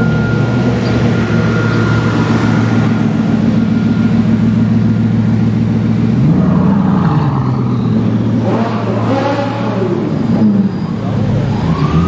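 Bugatti Veyron's quad-turbo W16 engine running at low revs as the car rolls slowly, with one short rev that rises and falls about six seconds in.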